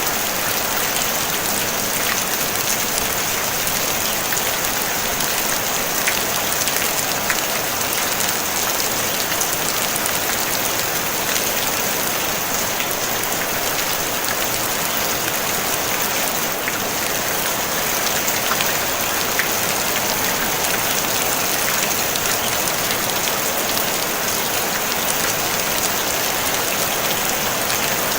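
Steady rain on a tin roof: a dense, even hiss of drops with fine ticks of individual drops through it.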